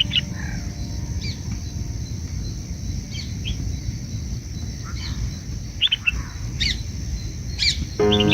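Short, high bird chirps, single or in quick pairs, coming every second or so over a steady low background rumble. Background music comes in near the end.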